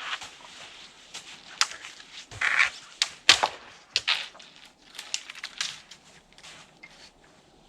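Irregular crunches and snaps from shelter building in snow: a string of short sharp cracks with a few longer crunches, the loudest a little past the middle, thinning out near the end.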